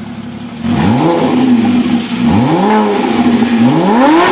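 Porsche Boxster engine on its original exhaust, idling and then revved three times, each rev rising and falling back to idle, about one and a half seconds apart.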